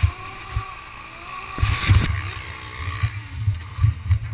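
Motorcycle engine running at low revs with uneven low thumps, with wind buffeting the camera microphone.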